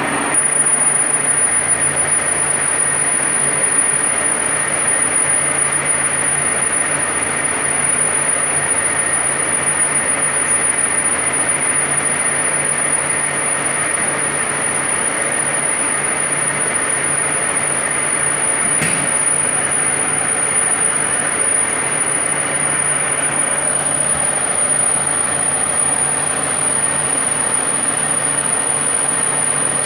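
Deckel CNC milling machine running while machining a cam: a steady mechanical noise with a thin, high whine held over it, and a single short click about two-thirds of the way through.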